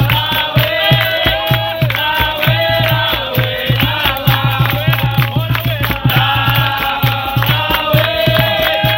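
Capoeira roda music: a group of voices singing over a steady, fast hand-drum beat.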